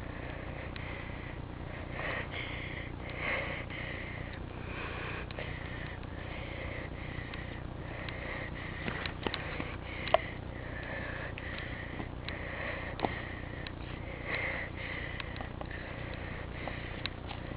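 A person breathing and sniffing close to the microphone, in soft repeated puffs over a steady hiss, with a few sharp taps in the middle.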